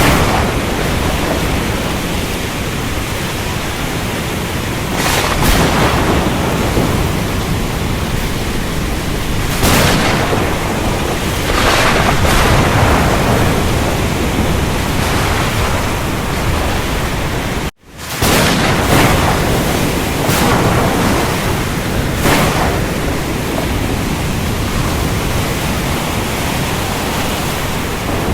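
Thunderstorm recording: steady rain with continuous low thunder rumble, and brief swells of sharper thunder every few seconds. The sound cuts out for an instant about two-thirds through, then resumes, as at a loop splice.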